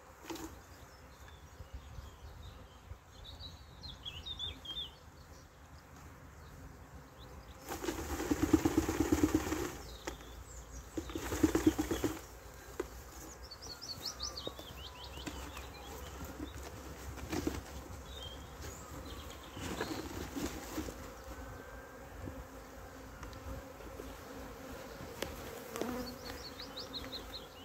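Honeybees of a swarm buzzing around, with two louder stretches of buzzing and rustling about eight and eleven seconds in as the cluster is shaken from a branch into a box.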